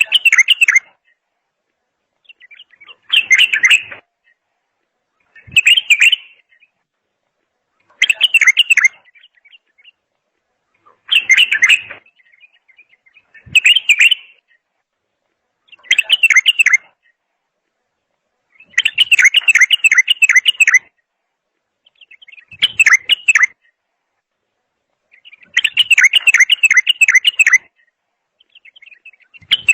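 A songbird singing short phrases of quick repeated trilled notes, one phrase every two to three seconds, with silent gaps between.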